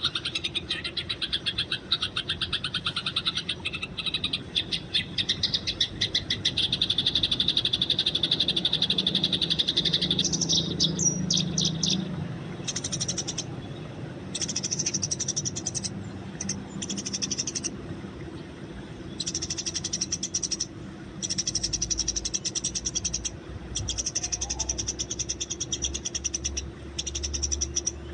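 Eurasian tree sparrows chattering in fast, repeated chirps, the agitated squabbling calls of sparrows fighting. The chatter runs dense and unbroken for about the first ten seconds, then comes in bouts of a second or two with short pauses between.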